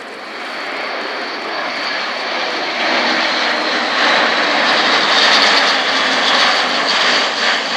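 Airbus A400M's four turboprop engines running loud as the aircraft passes, growing louder over the first few seconds, with a faint high whine over the engine noise.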